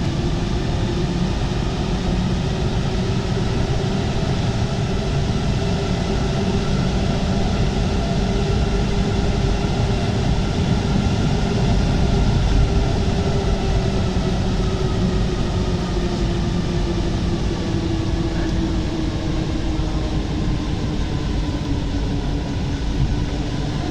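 Paris Métro MP 05 rubber-tyred train running between stations, heard from inside the front car: a steady rolling rumble with a faint motor whine that slowly shifts in pitch.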